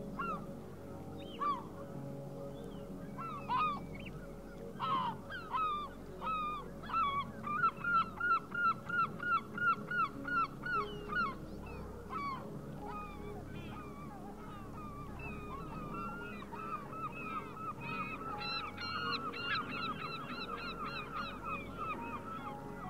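A series of honking bird calls, the loudest in a quick run of about two a second in the middle, with a second, softer run near the end, over a low steady background of sustained tones.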